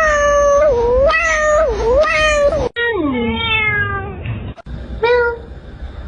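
Domestic cats meowing: a long meow with wavering pitch, then one that falls in pitch, then a short meow about five seconds in. The calls are split by abrupt cuts between clips.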